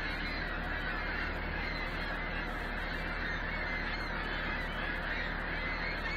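A huge flock of birds calling all at once, a dense, unbroken din of countless overlapping calls.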